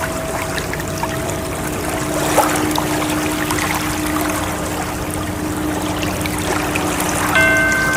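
Ocean waves washing, as a steady rush of water noise. Soft held tones from an added ambient sound layer sit over it, and a new, brighter tone with several pitches comes in near the end.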